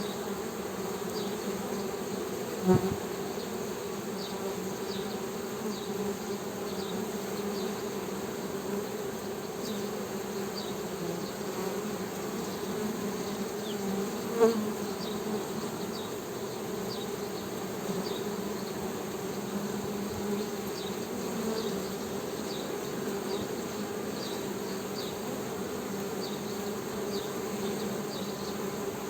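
Honey bees humming in a steady low drone, with two brief knocks: one about three seconds in and one about halfway through.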